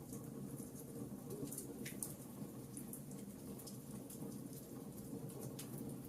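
Wood fire in a fireplace crackling: frequent small, irregular snaps and pops over a steady low murmur from the burning fire.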